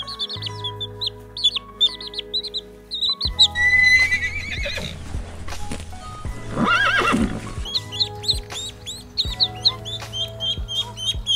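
Quail chicks peeping in rapid short high chirps, then a horse whinnying once about seven seconds in, then goslings peeping near the end, all over steady background music.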